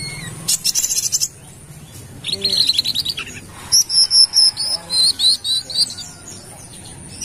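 Brown-throated sunbird (kolibri kelapa) singing in three bursts of rapid, high, sharp chirps and trills with short pauses between them.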